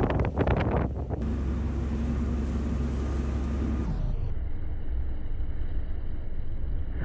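Steady low engine rumble with a faint hum, with wind buffeting the microphone for about the first second. About four seconds in, the sound changes abruptly to a duller, thinner steady rumble.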